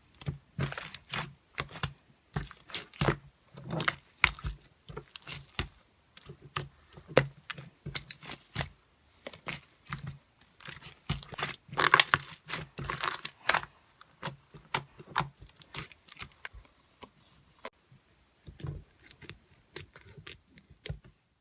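Irregular close-up crunching and crinkling clicks, coming in quick clusters with short gaps, over a faint steady low hum.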